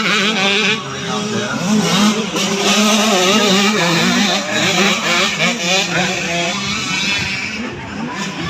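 Several motocross dirt bikes racing on the track, their engines revving up and down over one another without a break.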